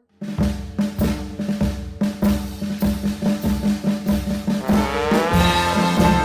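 Band music: drums start just after the opening, playing a regular march-like beat with snare and bass drum over a steady low note. Brass, a trombone among them, slides up into the tune near the end.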